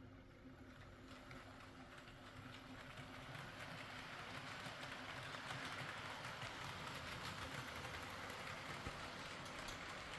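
HO scale model train running on its track: a steady rattle of wheels on the rails that grows louder over the first few seconds as the train comes nearer.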